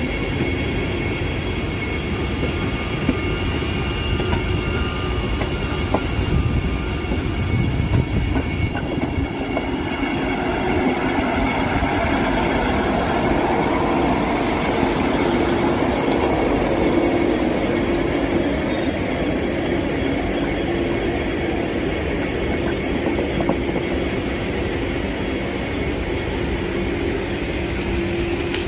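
Vande Bharat Express sleeper trainset rolling past on the rails: a steady rumble of wheels on track under a continuous whine, with a few sharp clicks in the first several seconds.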